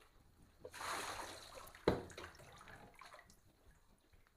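Water scooped and poured from a cup over a dog in a bathtub: a soft splashing pour starting about a second in and fading out, with a short knock partway through.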